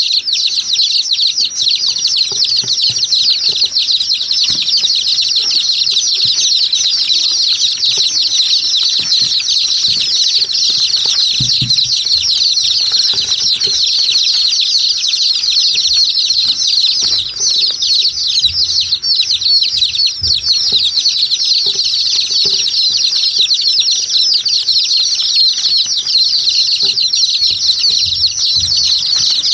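A large flock of small caged birds chirping and chattering non-stop, many quick high calls overlapping into a steady din, with occasional faint low knocks and flutters among them.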